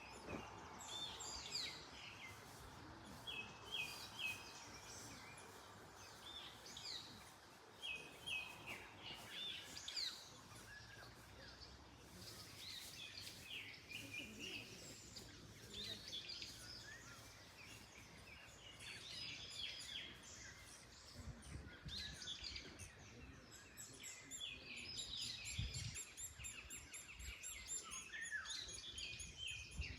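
Several songbirds chirping and singing over one another, with short repeated calls and trills throughout, over a faint steady hiss of wind in trees.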